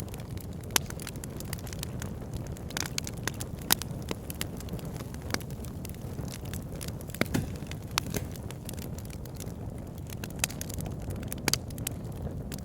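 Wood fire burning in a fireplace: a steady low rumble of flames with irregular sharp crackles and pops from the logs, the loudest about a second in and again just under four seconds in.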